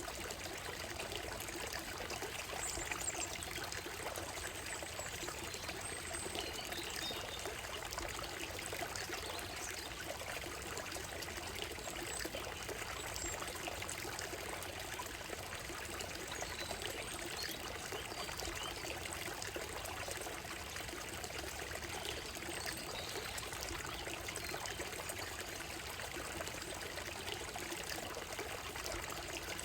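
Shallow forest stream running steadily over a gravel and stone bed, with faint, brief bird calls now and then.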